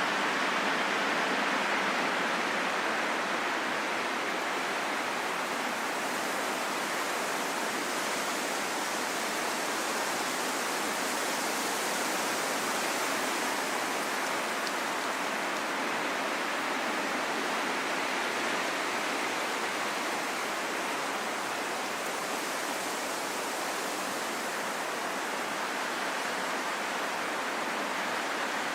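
Steady rushing wind, a dense even hiss that slowly swells and eases every several seconds.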